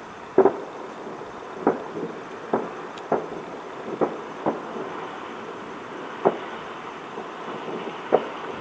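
Distant fireworks exploding: about ten sharp bangs at irregular intervals, a double bang near the start, over a steady background hum.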